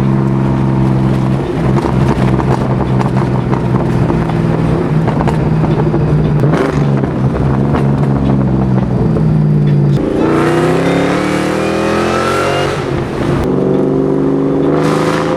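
2003 SVT Mustang Cobra's supercharged 4.6-litre V8 engine running at a steady speed, then accelerating hard about ten seconds in. Its pitch climbs, dips briefly at a gear change, and climbs again.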